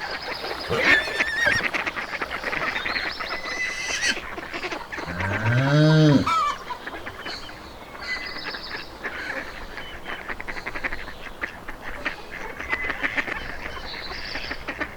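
A cow moos once, about five seconds in: a long low call that rises and then falls. Throughout, there is a busy chatter of higher-pitched animal calls.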